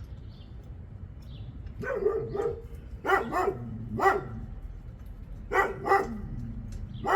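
A dog barking repeatedly, about eight short barks, often in pairs, starting about two seconds in.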